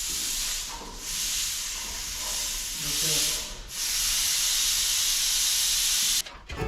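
Steady hissing noise in stretches of a few seconds, with short dips between them, cutting off suddenly near the end.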